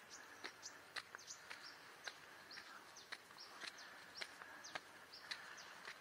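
Quiet tropical forest ambience: small birds chirping many times in short, high, falling notes, with scattered sharp clicks and a faint steady hiss.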